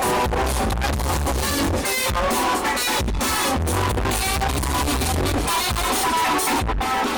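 Live recording of a band playing, with guitar over a steady bass and drum beat.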